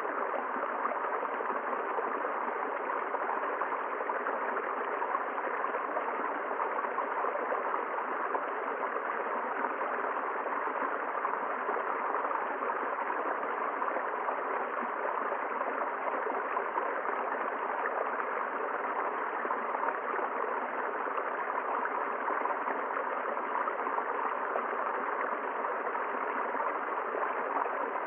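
River water flowing steadily, a constant rushing with no breaks or changes.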